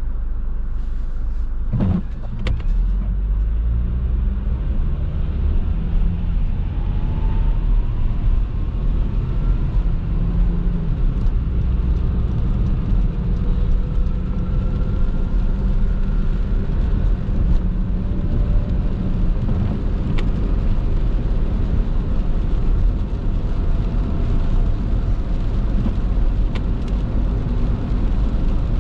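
Car driving on a wet road, heard from inside: a steady low rumble of engine and tyres. The engine note rises a few times as the car picks up speed, and there is a sharp click about two seconds in.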